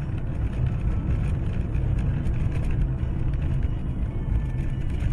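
Steady low rumble of a car on the move, road and engine noise as a dashcam picks it up, with no impact in it.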